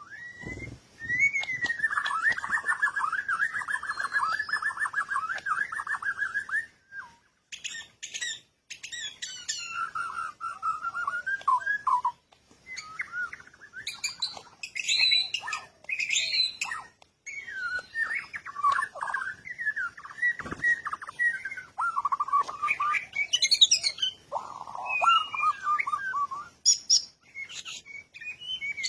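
Birds calling and chirping: a long rapid trill for the first several seconds, then sharp chirps and more trilling phrases broken by short pauses.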